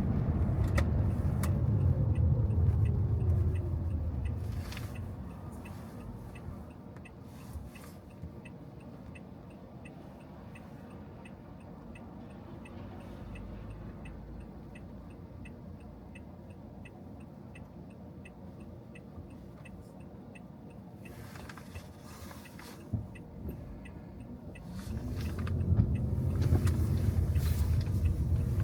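A car slows to a stop on a wet road: low tyre and engine rumble fades with a falling pitch over the first few seconds. It then sits stopped and quiet, with a steady, regular ticking and a few short swishes. Near the end it pulls away, the rumble rising again with a climbing pitch.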